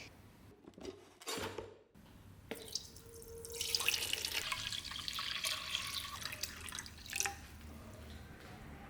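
Water running, as from a tap, for about five seconds before easing off, after a few small knocks and drips.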